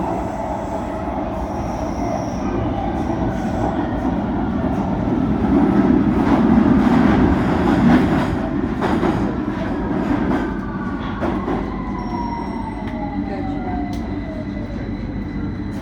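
London Underground Victoria line train running, a steady rumble and rattle that swells around the middle. Over the last few seconds a whine falls steadily in pitch.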